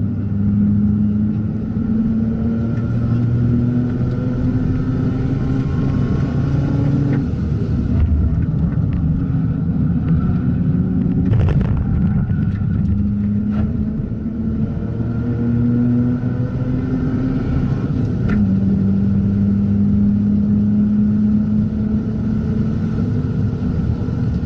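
Mazda RX-8's two-rotor rotary engine running under load, its pitch climbing slowly through long pulls, with a break about seven seconds in and a change again near eighteen seconds. A few sharp clicks come in the middle.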